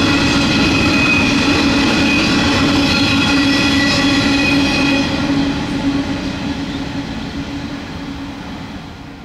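Coal train wagons rolling past on the rails: a steady rumble with a high, steady whine over it, fading away over the last few seconds as the tail of the train moves off.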